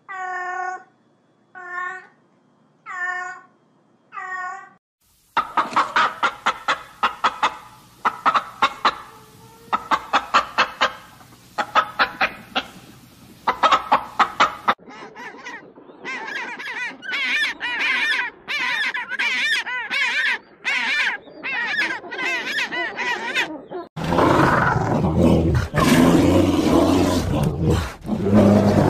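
A cat meowing four times, then a hen clucking in quick repeated bursts, then a run of other fast repeated calls, and from about four seconds before the end a brown bear roaring loudly.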